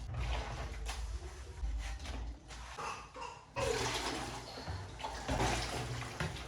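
Water running in a small room, such as a tap or shower filling a tub, growing suddenly fuller and louder about three and a half seconds in.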